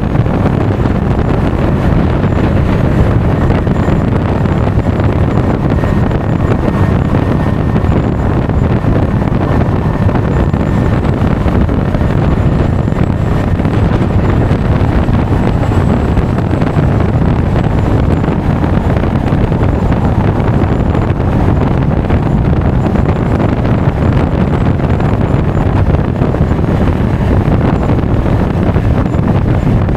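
Steady, heavy wind rush on an action camera's microphone while riding a Honda Forza 350 scooter at speed, a dense low rumble with the scooter and road noise blended in underneath.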